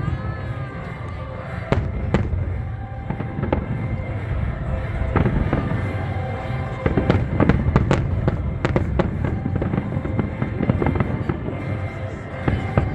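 Fireworks bursting with sharp bangs and crackles that come in quick, irregular succession and are thickest in the middle, while music plays.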